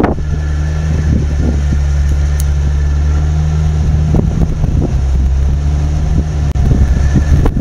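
Off-road 4x4 engine running at steady revs, with scattered low thumps near the end as the engine note fades.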